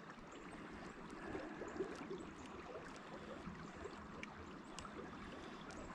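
Faint, steady rush of flowing river water, with a few small clicks scattered through it.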